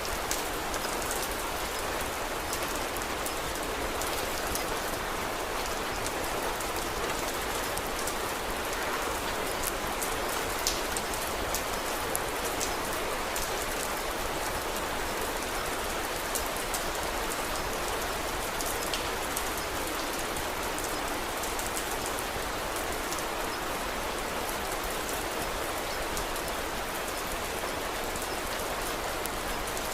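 Steady rain falling, an even unbroken hiss with scattered faint sharp ticks.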